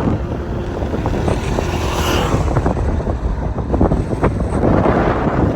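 A vehicle in motion, with wind buffeting the microphone and irregular knocks and rattles throughout.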